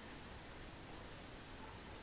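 Faint steady hiss of room tone, with no distinct sound standing out.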